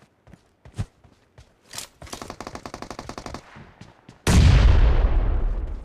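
Video-game gunfire: scattered single shots, then a rapid automatic burst. About four seconds in comes a much louder blast with a deep low end that fades over a second or so.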